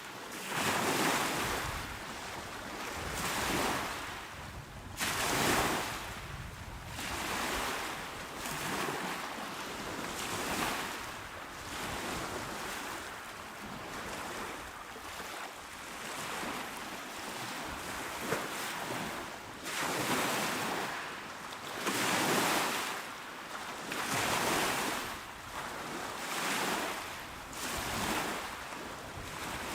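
Small ocean waves breaking on a shore, each wash swelling and fading every couple of seconds, with a few stronger surges a little past the middle.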